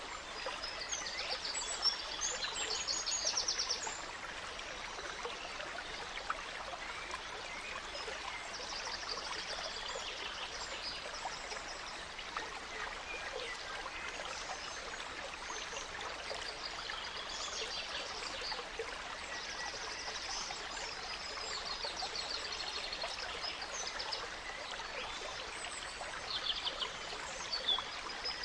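A gentle stream running steadily, with songbirds singing over it in short phrases and rapid trills that recur every few seconds. The birdsong is loudest a couple of seconds in and again near the end.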